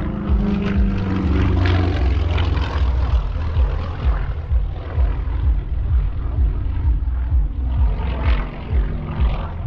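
Propeller aircraft engine running loud and steady, with an uneven low pulsing throughout.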